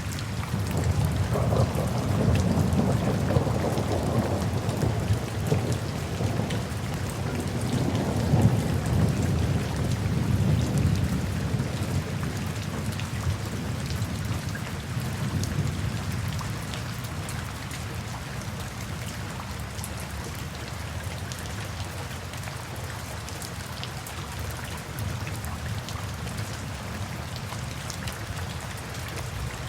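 Steady rain falling, with a long low roll of thunder that swells twice in the first half and fades away by about the middle, leaving the rain alone.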